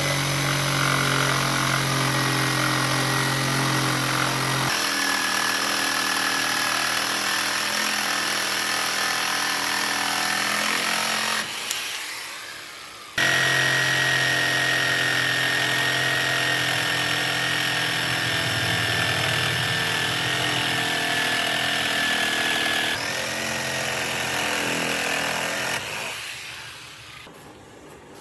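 A handheld power tool running at a steady speed, winding down about twelve seconds in. It is then running again and winds down once more near the end.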